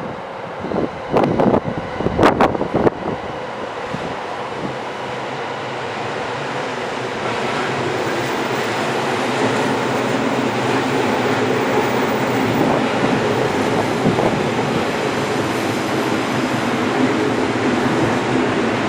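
Odakyu 3000 series electric commuter train running by on the track. Its wheels clack sharply over rail joints a few times in the first three seconds, then give way to a steady running noise that grows gradually louder.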